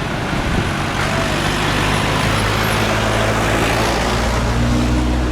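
Jet airliner engines at takeoff thrust: a loud, steady rushing noise over a deep low rumble.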